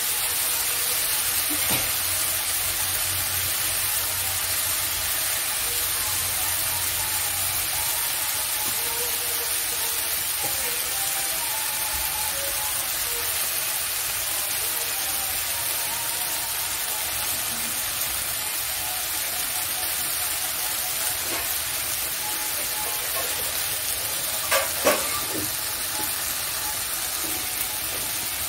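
Chopped water spinach sizzling steadily as it fries in oil in a kadai, with two sharp knocks near the end.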